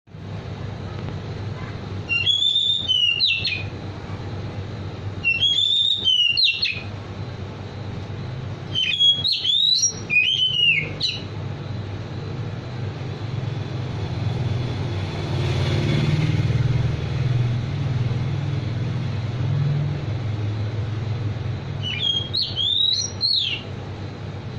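A songbird singing short, clear whistled phrases of rising and falling notes, each about a second long. They come every few seconds at first, then after a long pause once more near the end. A steady low rumble runs underneath and swells in the middle stretch.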